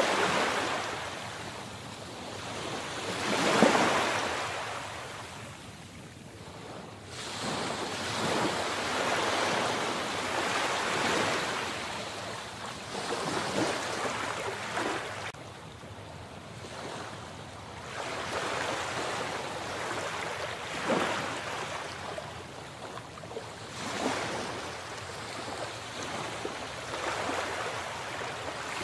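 Sea waves breaking and washing in, swelling and falling back every few seconds, with the loudest break about four seconds in.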